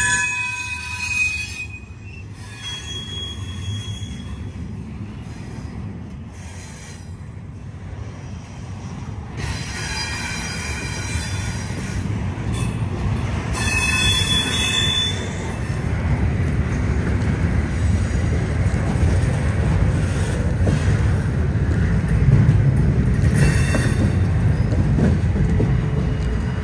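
Freight train cars rolling past, their steel wheels squealing in high, thin tones near the start and again around the middle, over a low rumble that grows louder in the second half.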